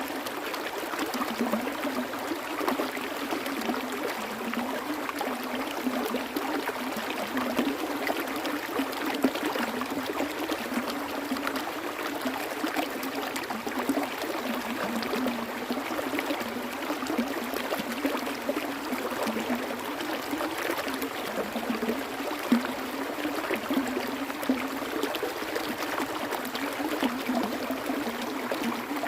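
Water flowing and trickling steadily over stones in a stream, with small splashes and gurgles throughout.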